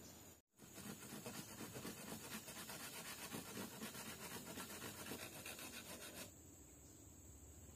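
Rapid, rhythmic scraping strokes, a rubbing sound like rasping on wood, starting just after a brief dropout and cutting off abruptly about six seconds in, leaving a faint background of insects.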